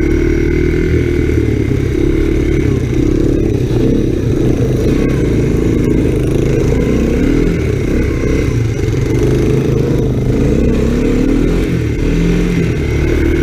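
Honda ATC 250SX three-wheeler's single-cylinder four-stroke engine running under throttle while being ridden, its pitch rising and falling as the throttle is worked through turns.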